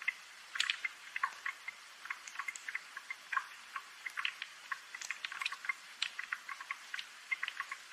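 Rain dripping: many irregular, sharp drops ticking several times a second over a faint hiss.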